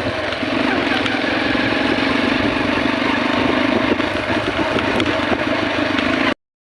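Small single-cylinder motorcycle engine running steadily. The sound cuts off abruptly near the end.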